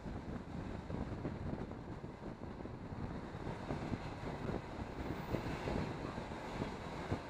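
Steady rumble of a moving passenger train heard from inside the carriage: wheel and rail noise mixed with rushing air, with occasional faint knocks.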